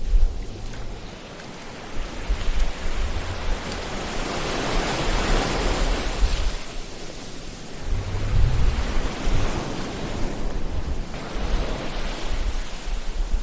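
Ocean waves washing in, one surge building and peaking about five seconds in before drawing back, with a low rumble coming and going underneath.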